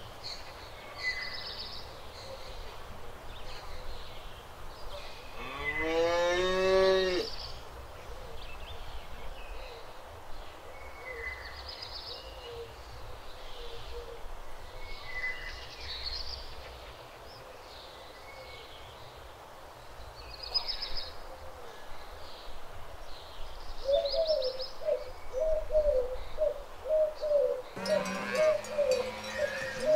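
A cow moos loudly about six seconds in, one long call rising in pitch, and moos again near the end, while small birds chirp on and off throughout. From a few seconds before the end, a run of short repeated notes comes about two a second.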